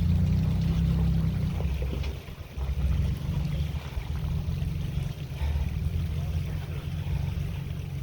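Jeep engine running at low crawling speed, a steady low rumble that dips briefly about two seconds in and then picks back up.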